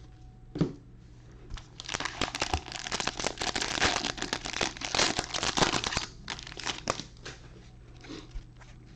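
Plastic wrapper of a trading-card pack being torn open and crinkled, with a dense run of crackling about two seconds in that tails off near the end, after a single knock at the start.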